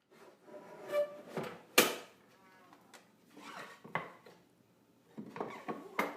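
Knocks and clatter of plywood pieces and tools being handled and set down, a handful of separate hits, the sharpest about two seconds in; no saw is running.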